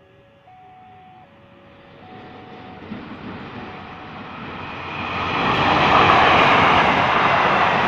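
Krakatau passenger train approaching and passing close: its rushing rumble builds steadily over about five seconds, then runs loud and steady. A faint chime melody fades out in the first two seconds.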